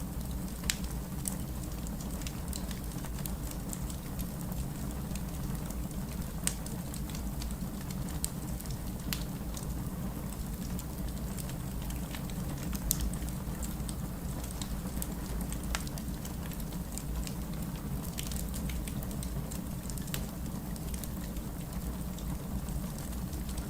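Wood fire crackling and popping, with a few louder pops, over a steady low wash of heavy rain.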